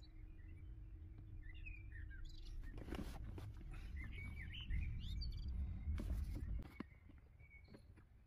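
Faint bird chirps in short bursts, over a low steady rumble that fades out near the end, with a couple of sharp clicks.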